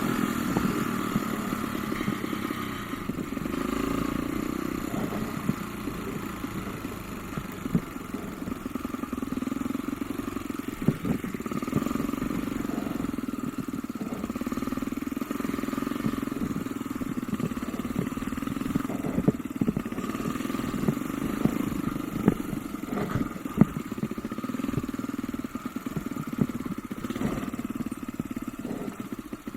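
Off-road motorcycle engine running as the bike is ridden over rough ground, with many short sharp knocks and clatter scattered throughout.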